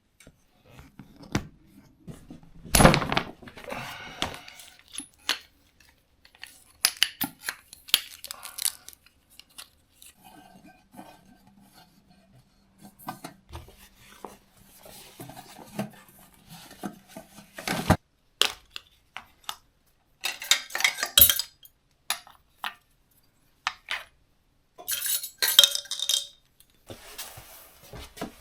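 Pots, dishes and cutlery clinking and clattering in irregular bursts, with short quiet gaps between them.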